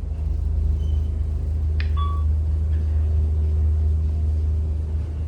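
Passenger elevator car travelling between floors: a steady low rumble of the car in motion, with a click and a short beep about two seconds in as it passes a floor.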